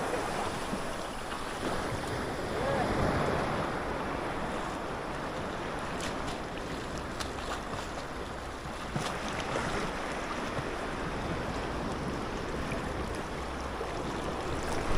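Sea waves washing on the shore, mixed with wind buffeting the microphone, as a steady rushing noise.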